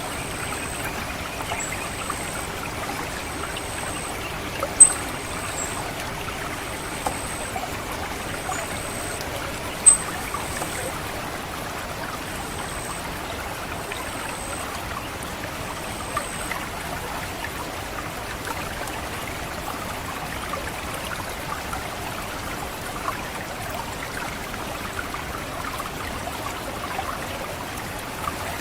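Water trickling through a rice paddy, with an orange-headed thrush's thin, very high-pitched call notes repeating about once every second and a bit. The calls stop about halfway through, and two sharp clicks stand out near the fifth and tenth seconds.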